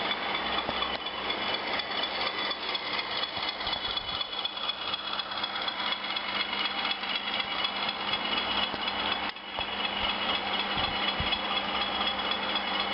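Bachmann Class 20 model locomotive's DCC sound decoder playing its diesel engine sound through the loco's small speaker, running steadily as the model slowly coasts down under the decoder's momentum, with a brief dip about nine seconds in.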